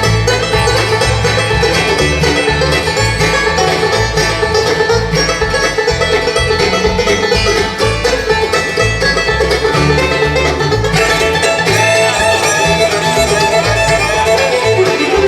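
Live bluegrass band playing an instrumental break between sung verses: string instruments over a steady bass beat, with the lead melody moving higher about 11 seconds in.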